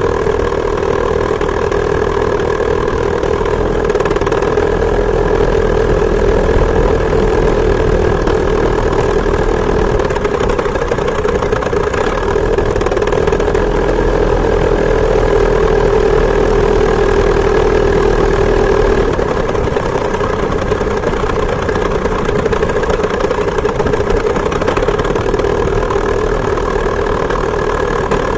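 Two-stroke chainsaw engine driving a homemade moped, running steadily at high revs; the pitch lifts slightly a few seconds in and eases off a little about two-thirds of the way through.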